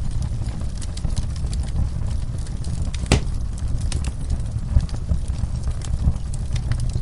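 Wood fire burning in a fireplace: a steady low rumble of flames with scattered crackles, and one louder pop about three seconds in.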